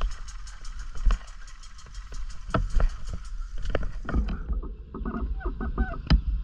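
Riding noise from an off-road bike on a muddy trail: a heavy low wind rumble on the microphone with sharp knocks from bumps, a fast run of even ticking in the first few seconds, and short repeated whining bursts from about four seconds in.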